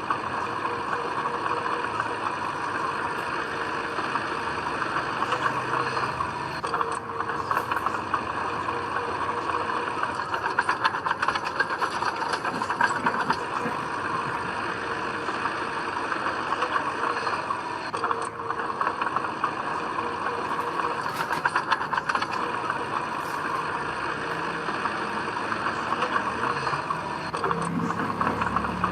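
Diesel earthmoving machinery running steadily, with a continuous rattling clatter.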